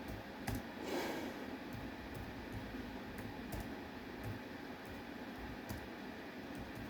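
Faint, irregular light clicks, roughly one every half second, like typing or tapping, over a steady low room hiss, with a soft rustle about a second in.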